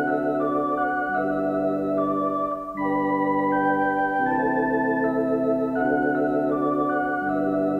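Electronic organ playing sustained chords that change about every second and a half, the held notes wavering with a fast tremolo.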